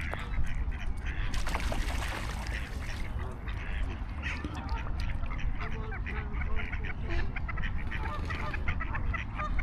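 A crowd of waterfowl calling, with many short overlapping calls, over a low rumble of wind on the microphone.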